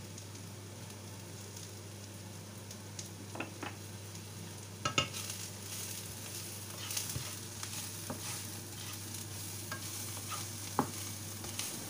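Chopped onion and garlic frying in oil in a nonstick frying pan: a steady, fairly soft sizzle. From a few seconds in, a wooden spatula stirs the mixture, with scattered scrapes and knocks against the pan.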